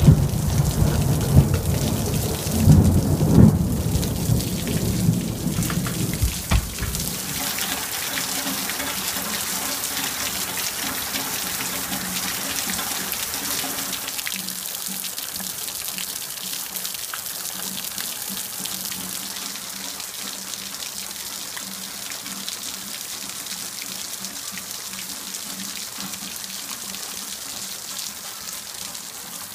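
Heavy rain pouring onto a concrete patio, a steady hiss that slowly eases in level. A loud, deep rumble with a few sharp peaks runs through the first seven seconds, then drops away.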